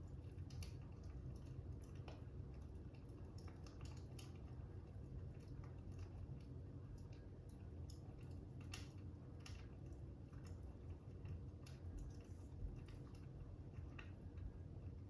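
Crackling fire, faint: irregular small pops and snaps over a low steady rumble.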